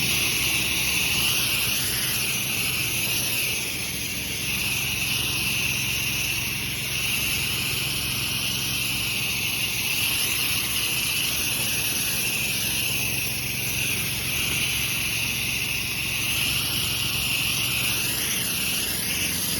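Pressure washer spraying a bleach-and-soap pre-treatment through an X-jet nozzle: a steady hiss of spray over the washer's engine running underneath. This is the pre-treatment pass to kill mold before surface cleaning.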